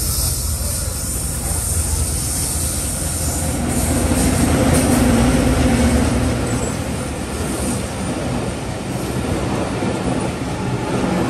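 Diesel-hauled intercity passenger train passing close by at speed. A steady low rumble of wheels on rail carries a low hum that swells to its loudest about five seconds in, then the coaches run past.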